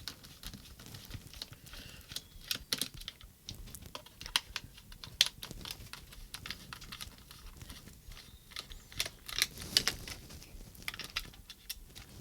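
Irregular light clicks and taps of a small screwdriver working screws out of a plastic handheld radio transmitter case, along with the plastic shell being handled.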